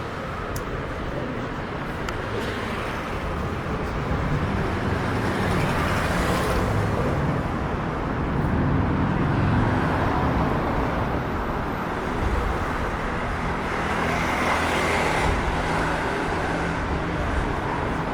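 City street traffic: the steady rumble of cars and other vehicles, swelling and easing several times as they pass close by.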